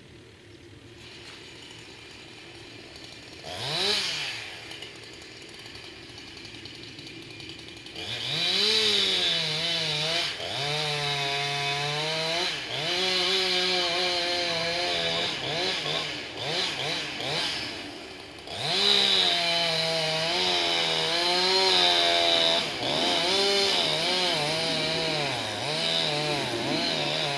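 Two-stroke chainsaw idling, blipped once about four seconds in, then run at full throttle from about eight seconds. Its pitch sags and recovers as the chain bites into cedar wood. It eases off briefly around sixteen seconds and is opened up again near nineteen seconds to keep cutting.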